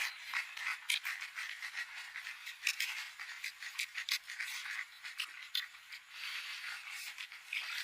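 Irregular scraping and clicking sounds with a hiss, closely spaced and uneven.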